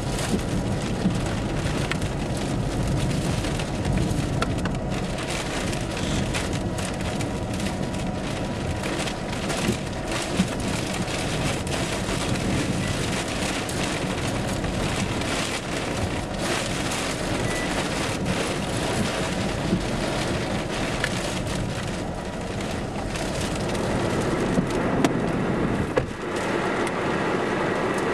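Steady rushing noise of rain and storm wind, with scattered sharp ticks of drops striking the vehicle. A faint steady whine runs through the first half.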